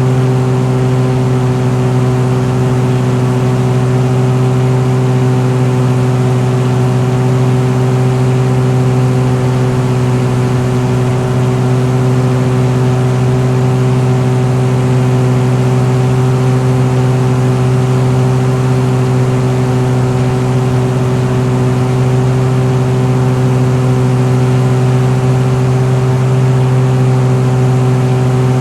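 Piston engine running at a constant speed, a loud steady drone whose pitch does not change.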